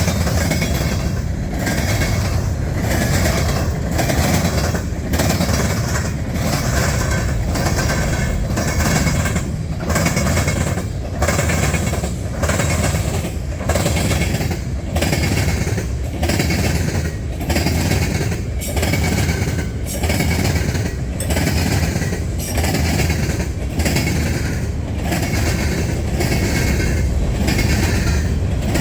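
Freight train rolling past close by: a steady rumble and wheel noise, with a regular beat of short dips about once a second as the cars go by.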